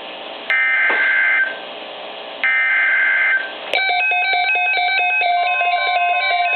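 NOAA Weather Radio SAME alert header: two bursts of warbling digital data tones, each about a second long with a short gap between. About 3.7 seconds in, the Reecom weather radio's electronic alert alarm starts, a fast repeating pattern of beeps that signals an incoming severe weather watch.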